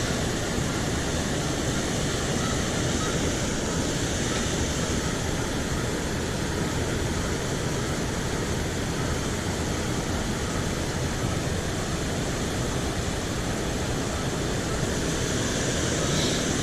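Water pouring over a small spillway, a steady rushing noise that does not change.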